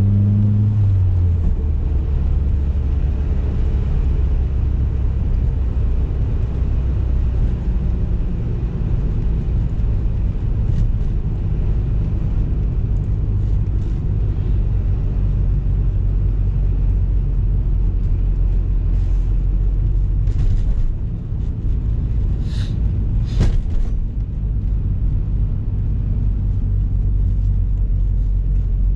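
BMW E30 M3's S14 four-cylinder engine heard from inside the cabin while driving: the revs drop about a second in, then a steady low drone. Two sharp clicks about three-quarters of the way through.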